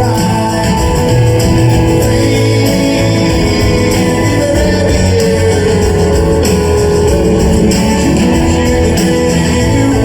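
Live rock band playing loud and continuous, with guitars and a sung vocal, as recorded from the audience.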